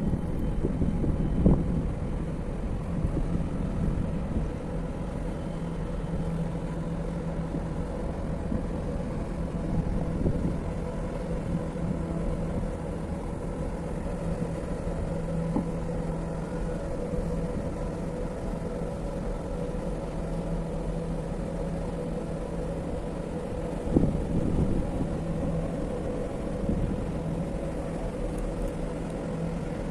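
A large dual-fuel container ship running under way, a steady low rumble with a held hum. A few brief louder low bumps come at the very start and again about 24 seconds in.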